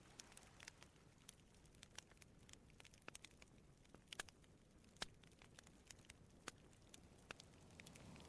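Faint crackling of a wood campfire: irregular small snaps and pops, with a couple of louder pops about four and five seconds in, over a soft low rush.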